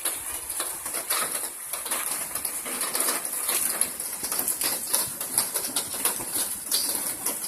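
Hail and rain falling: a dense, irregular rattle of hailstones striking over a steady hiss of rain.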